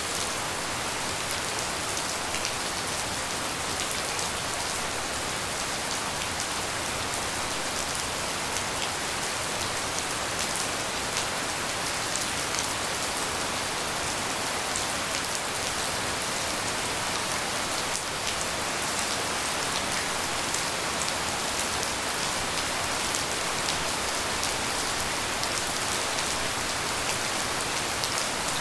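Steady tropical rain, with a dense patter of individual drops ticking over an even hiss.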